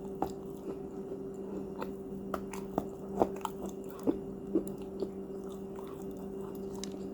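Close-up chewing and biting of crunchy cookies: irregular sharp crunches, the loudest about three seconds in, over a steady low hum.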